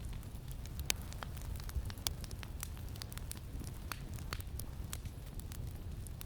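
Campfire crackling: irregular sharp pops and snaps, a dozen or so, over a steady low wind rumble.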